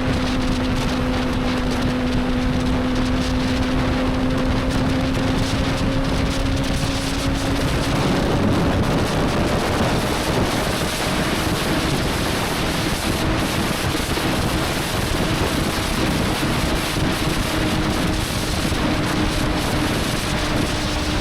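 Motorcycle engine running at a steady cruise under heavy wind noise. Its note rises slightly about eight seconds in, then sinks further under the wind.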